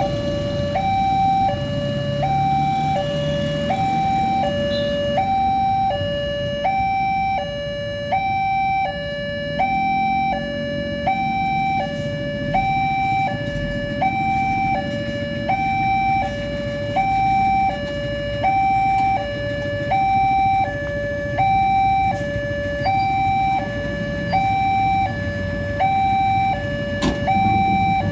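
Railway level-crossing warning alarm sounding an electronic two-tone signal: it switches evenly between a lower and a higher tone, about once a second each, the warning that a train is approaching. Low traffic rumble runs beneath it.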